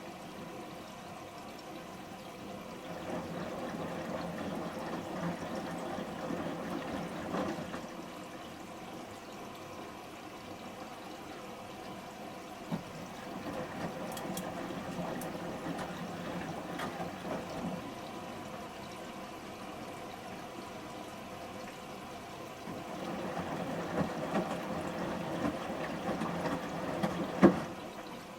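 Samsung Series 5+ washing machine drum tumbling shirts in rinse water: three swells of sloshing, each about five seconds long, with quieter pauses between as the drum stops and turns again. A sharp knock near the end.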